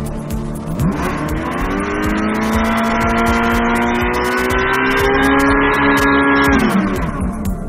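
A motor running with a steady pitched hum that rises about a second in, holds, and drops away near the end, with music underneath.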